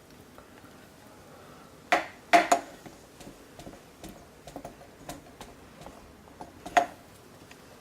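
A few sharp clinks and knocks of kitchen utensils and pots: one about two seconds in, a pair about half a second later, another near the end, with softer taps between.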